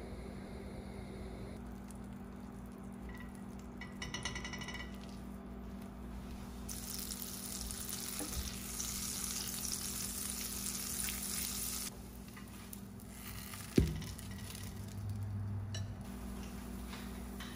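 French toast (bread soaked in egg yolk and milk) sizzling in butter in a nonstick frying pan. The hiss starts suddenly about seven seconds in and cuts off about five seconds later. A brief run of rapid clicks comes about four seconds in, and a single sharp knock, the loudest sound, comes about fourteen seconds in.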